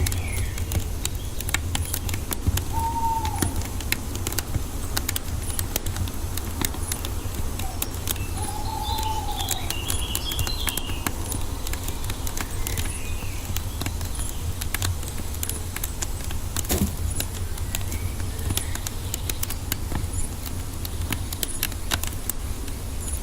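Wood fire crackling, with irregular sharp pops and snaps over a steady low rumble. A bird gives short arched calls twice, and a small bird twitters briefly about ten seconds in.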